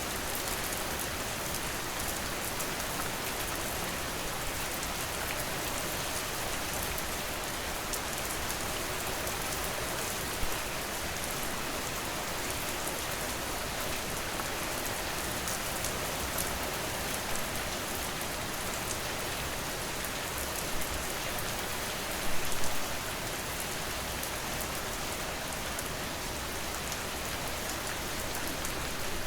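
Steady, dense rainfall: an even hiss of rain with individual drops pattering on a surface. A few drops hit louder, with the loudest short cluster about three quarters of the way through.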